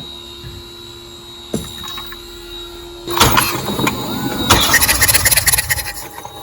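Starter motor cranking a BMW B48 four-cylinder engine with its spark plugs removed, for a compression test. It starts about three seconds in and pulses rapidly as it spins the engine over, then stops just before the end.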